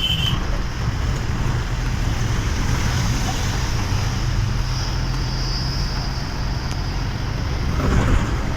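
Motor vehicle running on the road: a steady low engine hum with road noise, a brief high tone at the very start and a short rise in level near the end.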